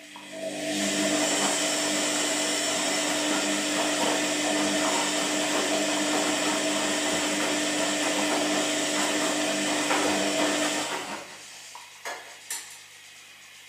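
Washing machine motor running at a steady speed with a constant hum under a loud hiss for about ten seconds, then winding down and stopping. Two short clicks follow near the end.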